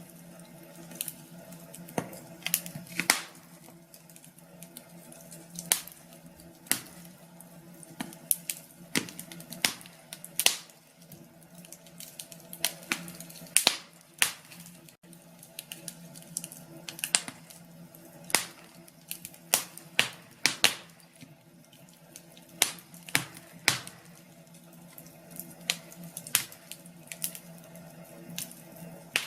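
Wood fire crackling: irregular sharp pops and snaps, several close together at times, over a steady low hum.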